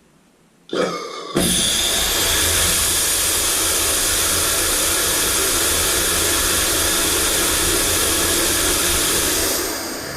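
Hobby aerospike hybrid rocket motor burning polycarbonate fuel with gaseous oxygen: it lights with a brief sputter about a second in, then runs with a loud steady roar for about eight seconds, starting to fade near the end.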